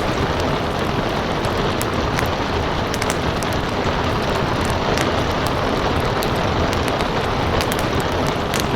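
Steady heavy rain mixed with a wood fire crackling, many small sharp pops scattered through it.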